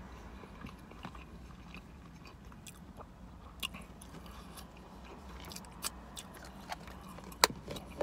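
Quiet chewing mouth sounds: scattered small wet clicks and ticks, the sharpest about seven and a half seconds in, over a low steady hum inside a car cabin.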